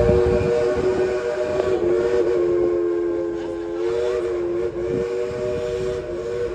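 The Dollywood steam locomotive's chime whistle blowing one long three-note chord. It wavers slightly partway through and cuts off near the end.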